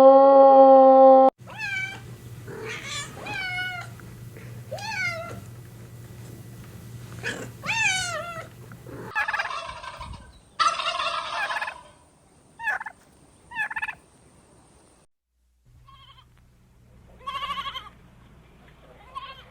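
A series of animal calls: a run of about eight repeated high, wavering calls, then a couple of noisier, harsher calls and a few short cries, with pauses between.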